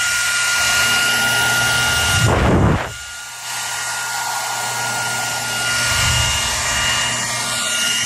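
Hair dryer running steadily: an even blowing noise with a steady whine above it. About two and a half seconds in, a short low rumble comes through, and then the sound drops briefly before picking up again.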